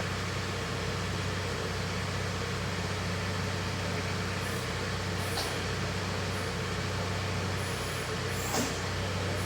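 BadBoy 5045 compact tractor's diesel engine running steadily at a constant speed while the backhoe controls are worked, with a short knock about eight and a half seconds in.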